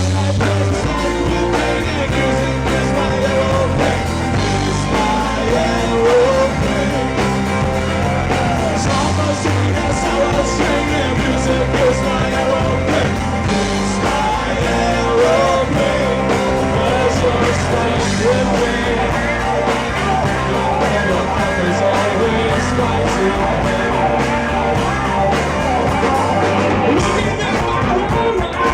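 A rock band playing a funk-rock song, with a busy, prominent bass line under guitar and drums.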